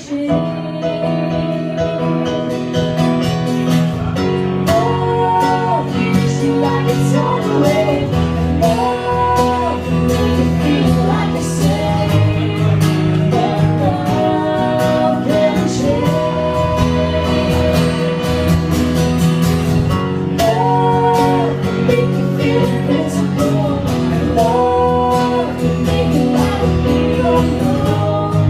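Acoustic duo playing a song live: a voice singing over acoustic guitar.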